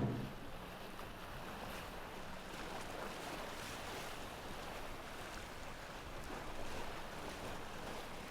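Steady, fairly quiet wash of water and wind, with a few faint splashes.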